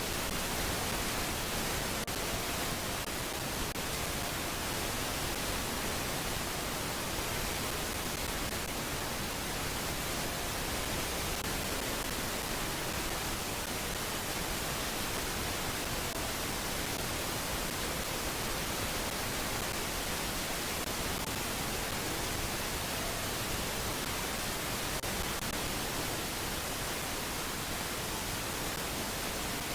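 Steady, even hiss of noise on a bald eagle nest camera's audio, with no bird calls or other distinct sounds standing out.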